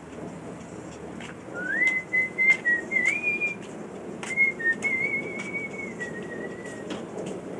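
Freshly lit wood fire crackling with sharp pops over a low rushing sound. A high, wavering whistle comes in twice, for about two seconds each time, with small steps in pitch.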